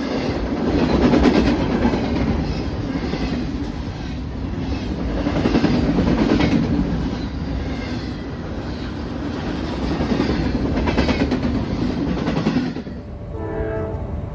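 Train passing close by, its wheels rolling and clicking over rail joints, with the noise swelling and easing every few seconds. About 13 seconds in the rolling noise stops suddenly as the train clears, and a few steady horn-like tones remain.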